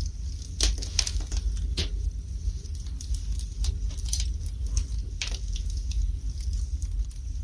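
Wood fire burning in a fireplace, crackling and popping in irregular sharp snaps over a steady low rumble.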